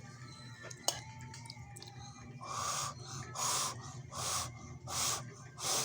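A person huffing short breaths in and out through the mouth, about one every second, starting about halfway through, the way one cools a mouthful of hot noodles. A single faint click comes about a second in.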